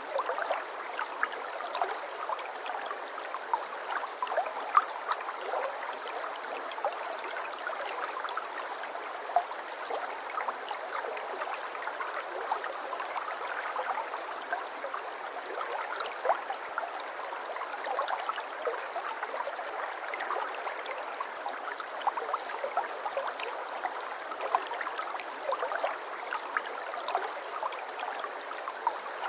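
A shallow brook babbling steadily, a continuous rush of water with many small splashes and gurgles over stones.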